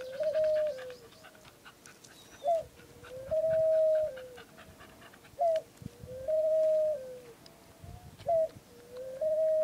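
Ring-necked dove cooing: a repeated two-part call, a short note followed by a long held coo that drops in pitch at the end, coming about every three seconds.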